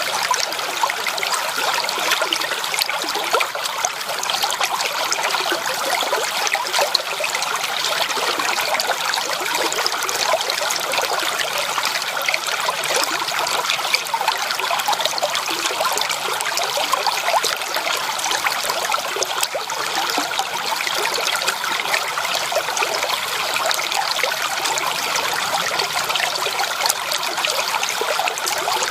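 A stream's water running steadily, a constant dense splashing and trickling with no pause.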